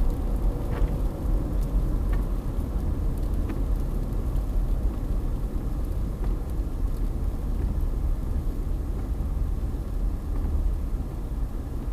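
Strong gusty wind buffeting the microphone, heard as a steady low rumble with a few faint ticks.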